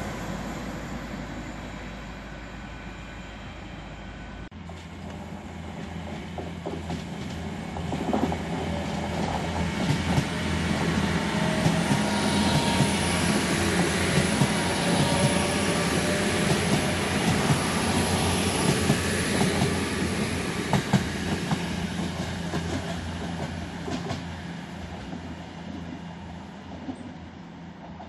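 TransPennine Express Hitachi Class 802 train running past: the sound of wheels on rail, with rapid clicks over the rail joints and a faint high whine, builds to its loudest in the middle and then fades away. Before that, about four seconds of fading noise from a previous train end at a cut.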